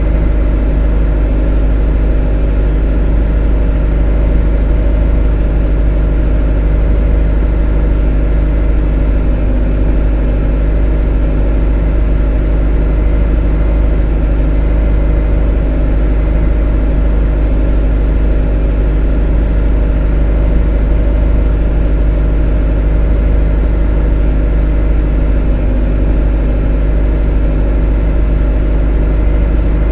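A motor running steadily at an even speed, a constant deep drone with a steady hum of several tones above it and no change in pitch or level.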